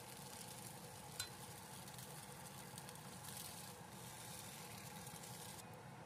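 Faint sizzle of lightly browned tofu sticks frying in a little oil in a nonstick wok as a spatula scoops them out, with one sharp spatula click against the pan about a second in. The sizzle cuts off shortly before the end.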